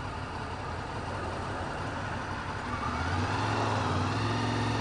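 Honda VFR800's V4 engine idling at a stop, then about three seconds in its note grows louder and fuller as the bike moves off.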